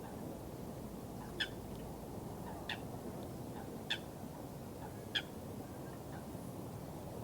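Steady low rush of flowing water with a bird giving a short, sharp call four times at an even pace, about once every second and a quarter.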